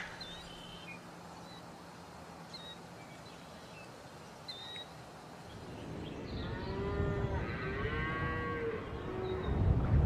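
Faint short bird chirps, then a cow mooing in one long wavering call from about six and a half seconds in, over a low rumble that grows louder toward the end.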